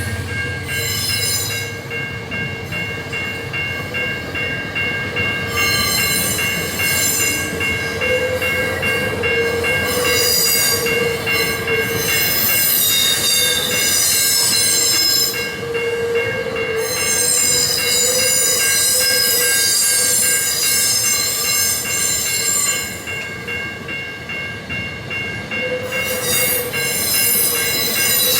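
Empty iron-ore train of GDT ore gondola wagons rolling past with a steady metallic ringing. High-pitched wheel squeal comes and goes in several spells of a few seconds each.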